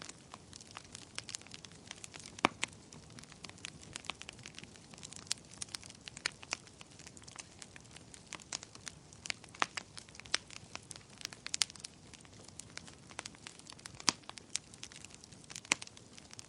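Campfire burning with irregular crackles and sharp pops over a soft steady hiss, a few snaps standing out louder, the sharpest about two and a half seconds in and again near fourteen seconds.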